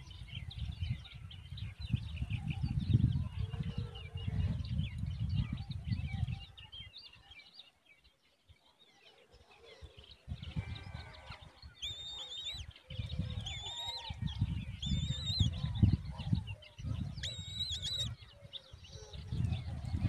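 Birds calling: small chirps at first, then a series of short, high whistled calls repeated several times in the second half. Gusts of wind rumble on the microphone, easing off to a quiet lull in the middle.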